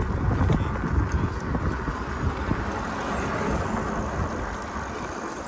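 Outdoor city street noise heard while cycling: a low rumble of traffic with wind buffeting the microphone, easing off slightly towards the end.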